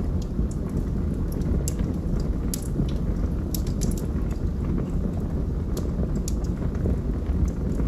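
Fire in a fireplace crackling: scattered sharp pops and snaps at irregular moments over a steady low rush of burning flames.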